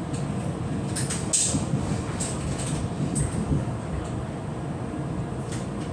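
Passenger train running along the line, heard from inside the carriage: a steady low rumble of wheels on rail with short sharp clicks and hisses now and then.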